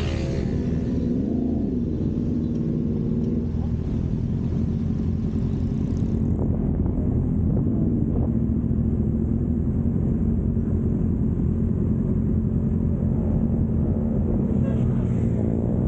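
Motorcycle engine running steadily on the road, with brief rises and falls in revs about a second in and again near the end, over a low rumble.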